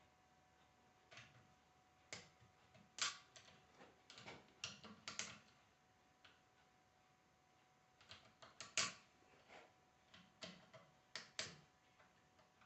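Irregular sharp clicks and knocks of metal parts and hand tools being handled while a Bosch alternator is taken apart, in two bursts of activity with a pause between.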